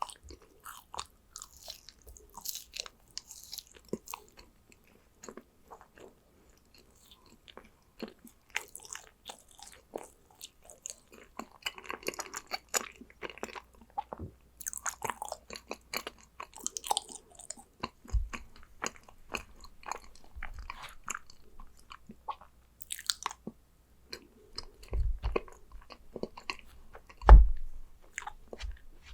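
Close-up chewing and biting of yakgwa, Korean honey-fried cookies: a steady run of small crackling and crunching mouth sounds, with a few dull low thumps, the loudest near the end.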